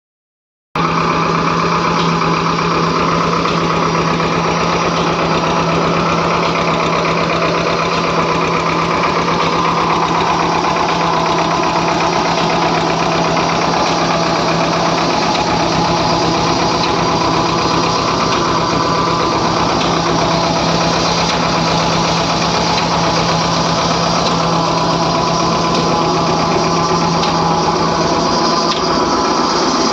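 Escort Jawan MPT 25 hp tractor's diesel engine running steadily at a constant speed with a steady hum, powering a water pump.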